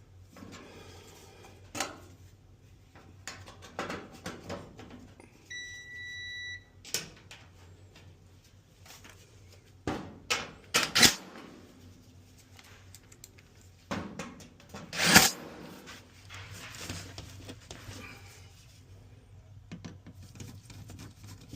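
Sheet-metal dryer panels and screws knocked and clattered during reassembly, in irregular knocks with the loudest clunks about eleven and fifteen seconds in. A single one-second electronic beep sounds about six seconds in, over a low steady hum.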